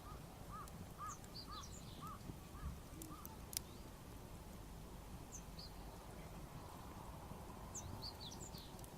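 Birds calling in the open: a run of about seven short, evenly spaced calls, roughly two a second, in the first three seconds, with several bursts of higher small-bird chirps. A single sharp click about three and a half seconds in, over a steady low rumble.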